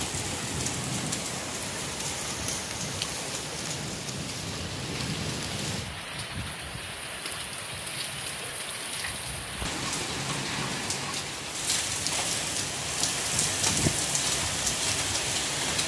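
Heavy rain pouring down steadily, a dense hiss of drops striking surfaces, growing louder over the last few seconds.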